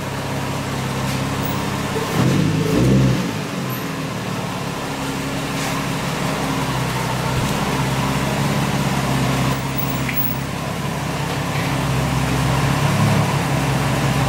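Infiniti G35's 3.5-litre V6 running steadily at low speed as the car creeps forward, with a brief swell in engine sound about two seconds in.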